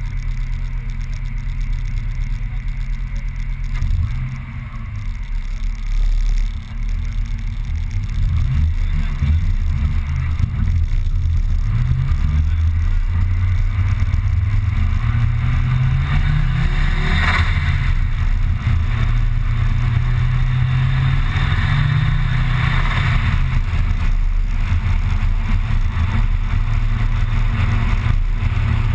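Car engine heard from inside the cabin, pulling hard through the gears: its pitch rises repeatedly and drops at each shift. There is a brief sharp noise about seventeen seconds in.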